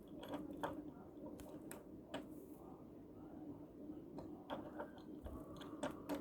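Light, scattered clicks and taps of small die-cast toy cars being handled and set down, about ten over a few seconds, over a faint steady hum.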